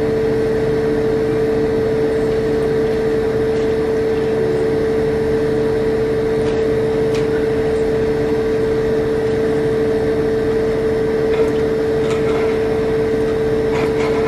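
A steady machine hum with one strong, constant mid-pitched tone over a bed of noise, unchanging throughout.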